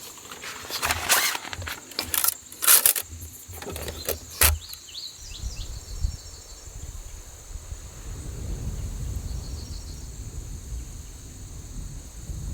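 A few sharp knocks and rustles in the first few seconds, then a low, steady rumble of distant thunder as the storm approaches. Insects keep up a thin, high, steady drone throughout.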